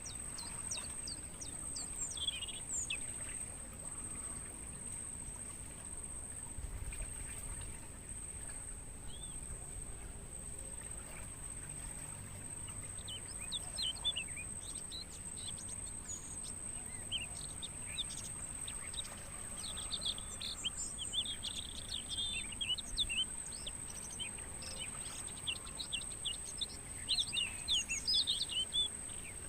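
Crickets keep up a steady, unbroken high-pitched trill. Over it, birds give quick chirps and short sweeping notes, a few early on and many more in the second half, where they are the loudest sound.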